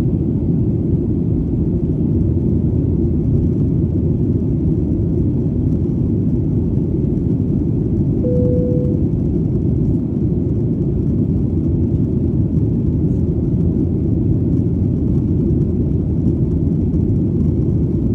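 Airplane in flight: engine and airflow noise as one deep, even rumble that neither rises nor falls. A short, steady tone sounds briefly about eight seconds in.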